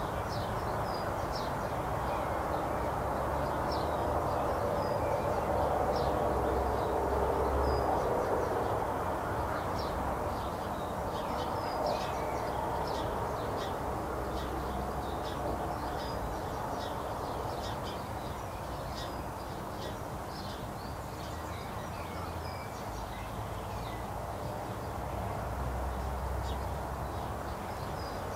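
Birds chirping in short, high calls scattered throughout, over a steady rushing background noise that swells a little a few seconds in.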